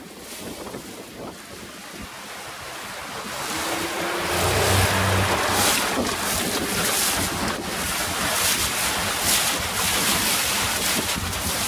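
Water rushing along the hull of a planing sailboat, mixed with wind buffeting the microphone. The rush builds over the first few seconds, then stays loud and gusty.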